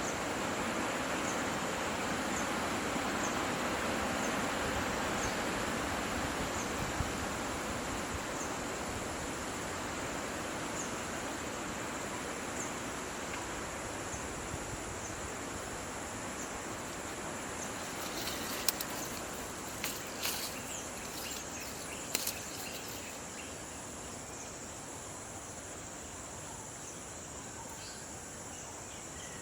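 Steady high-pitched insect drone over a rushing noise that slowly fades, with a faint chirp repeating about every second and a half early on. A few sharp clicks or snaps come about two-thirds of the way through.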